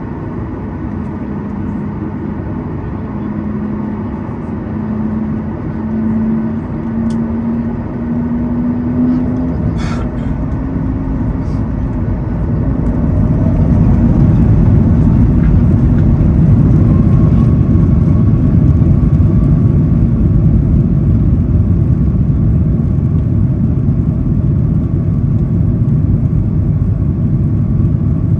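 Boeing 737 MAX 8's CFM LEAP-1B engines spooling up for takeoff, heard from inside the cabin. A hum rises slowly in pitch, then about 13 seconds in the takeoff roll sets in as a louder, steady low rumble.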